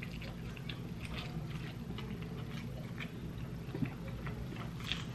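A person biting into and chewing a quesabirria taco with the mouth close to the microphone: soft, irregular wet crackles and clicks over a steady low hum.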